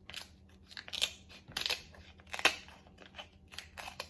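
Kitchen shears cutting through the shell of a king crab leg: a string of irregular snips and cracks, the loudest about two and a half seconds in.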